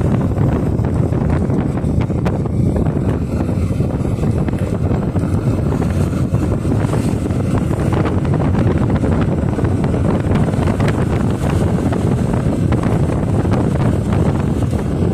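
Wind buffeting the microphone of a moving motorcycle, a steady loud rumble with the bike's running and road noise underneath.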